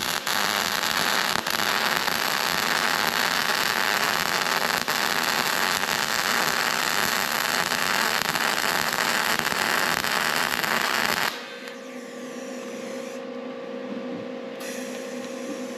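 MIG welding arc crackling steadily as a Vulcan MIG-Max 215 lays a bead with solid wire, stopping abruptly about eleven seconds in. A steady hum remains after the arc stops.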